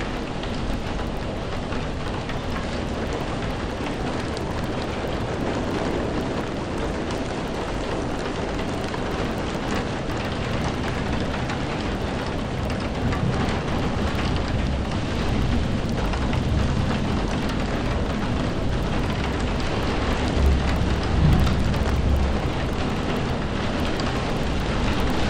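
Steady rainfall, with low thunder rumbling that swells in the second half.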